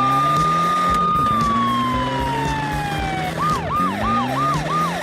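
Police siren sound effect: one long wail that holds high and then slowly falls, switching about three seconds in to a fast yelp of about three cycles a second, over a low droning underneath.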